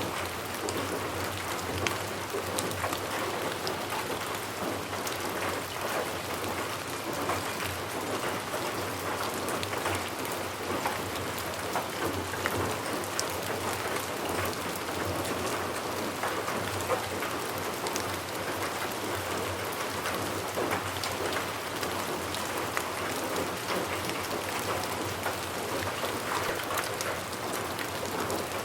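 Steady rain falling on a surface, with many separate drops ticking through the even patter.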